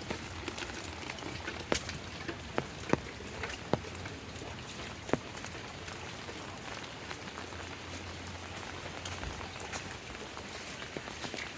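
Steady rain falling, with large drops striking close by as sharp, irregular taps, a few of them loud in the first five seconds.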